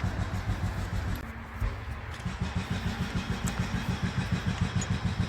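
An engine running steadily at idle, a low even pulse of about seven beats a second that dips briefly about a second in, with a few light clicks over it.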